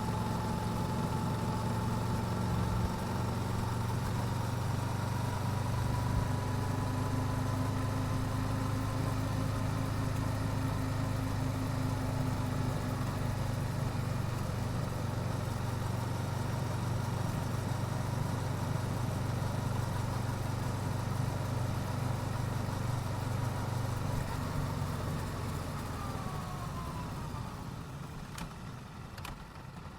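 Yamaha YZF-R7's 689 cc parallel-twin engine with stock exhaust running at a steady pace, easing off and getting quieter over the last few seconds.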